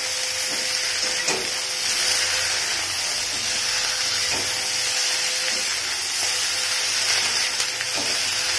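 Potato, carrot and aubergine pieces sizzling steadily in hot oil in a metal kadai over a high gas flame. A metal spatula gives a few light taps and scrapes against the pan as they are stirred, about a second in, near the middle and near the end.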